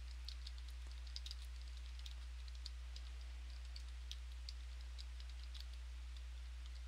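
Faint, irregular clicking of computer keyboard keys being typed, over a steady low electrical hum.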